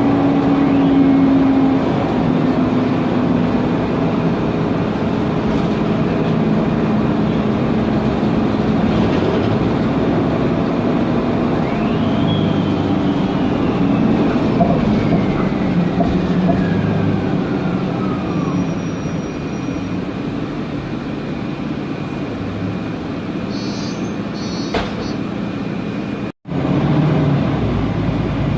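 Inside a Mercedes-Benz Conecto NGT city bus under way: its OM936G gas engine, drivetrain and road noise run steadily. About halfway through, a whine falls slowly in pitch over several seconds, typical of the Voith DIWA gearbox whistle as the bus slows. The sound cuts out for an instant near the end.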